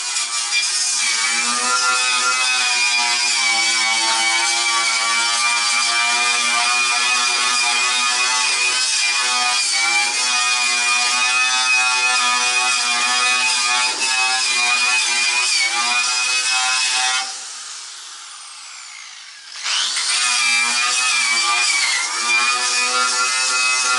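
Angle grinder fitted with a wire brush running with a steady whine as it scours surface rust off steel bodywork. About 17 seconds in it is switched off and spins down with a falling whine, then starts up again about two and a half seconds later.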